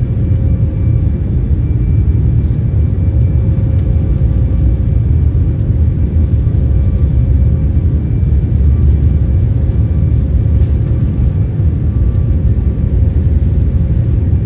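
Cabin noise of a Boeing 737 MAX 8 under takeoff power: a loud, steady low rumble from its CFM LEAP-1B engines and the rushing air, with a few faint steady tones above it.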